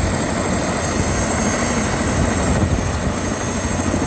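Helicopter engine and rotor running: a loud, steady drone with a low hum and a thin high whine above it.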